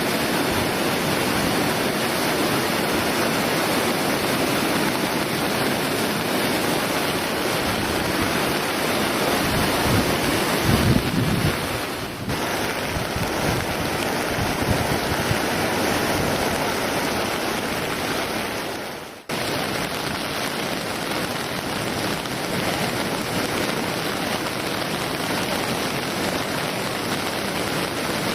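Typhoon-swollen river in flood, a loud steady rush of water, with wind buffeting the microphone in gusts. About two-thirds of the way in the sound fades briefly and then cuts back in abruptly.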